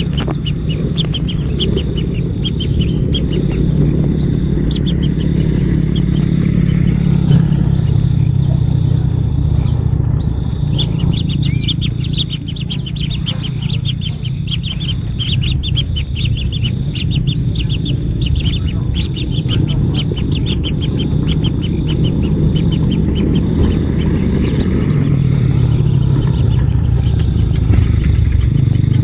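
Birds chirping in quick runs of short, high notes, several a second, busiest for a few seconds near the start and again through the middle. A loud, steady low rumble lies under them.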